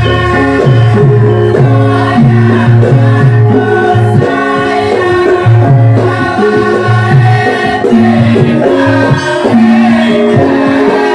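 Live Javanese gamelan music with singing, the accompaniment to a lengger masked dance: sustained pitched notes over a continuous drum-like beat.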